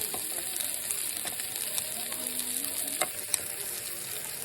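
Food with perilla leaves sizzling steadily in a pan, with crackles and a few sharp clicks about three seconds in.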